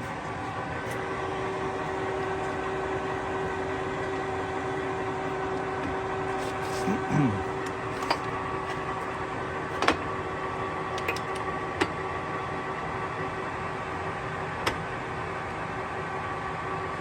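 Large Kingston HR3000 engine lathe running, its headstock gearing giving a steady hum with several held tones. Sharp metallic clicks and knocks come a few times from the mid-point on, and a short falling whine comes about seven seconds in.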